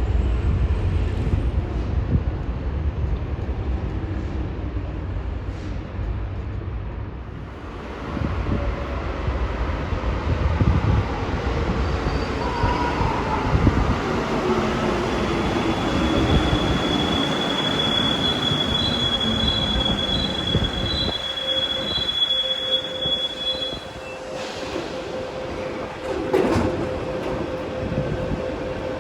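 Santiago Metro Line 5 train pulling into the station: running rumble, then a whine that falls in pitch as it brakes, with a high steady squeal. It comes to a stand about two-thirds of the way through, leaving a steady hum and a sharp clack near the end.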